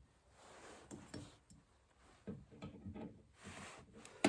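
A few faint, scattered clicks and taps of small steel parts being handled: the spring, collar and cotter pins being worked into place on an air compressor's flyweight governor assembly.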